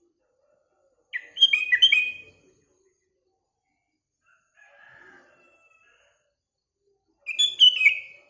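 Sooty-headed bulbul (kutilang) singing two short, quick whistled phrases, about a second in and again near the end, with a fainter bird call between them.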